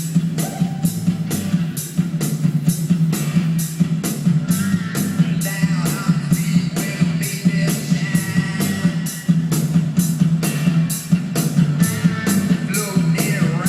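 Rock music with drums, guitar and singing played through a pair of Edifier R1000TCN bookshelf computer speakers, with a steady drum beat and heavy bass.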